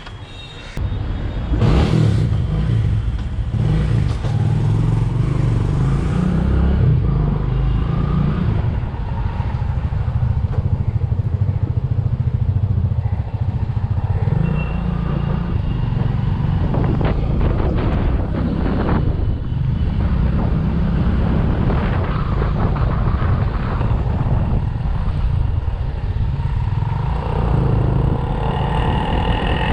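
Bajaj V15 motorcycle's single-cylinder engine running as the bike is ridden. The sound gets much louder about a second or two in and then stays steady.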